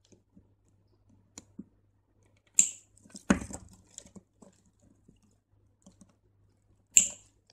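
Two sharp snips of small scissors, about four seconds apart, cutting off the leftover thread ends of the beadwork. Between them come light clicks and a dull knock as the beaded piece is handled.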